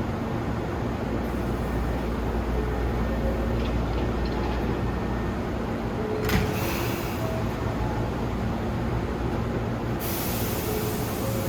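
Hankyu 3300 series electric commuter train running out of the station: a steady low rumble of wheels and traction motors. A sharp clack comes about six seconds in, and a hiss joins near the end.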